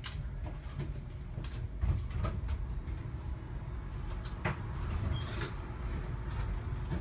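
Low rumble inside a light-rail car, with a handful of short knocks and clatters from the car's fittings.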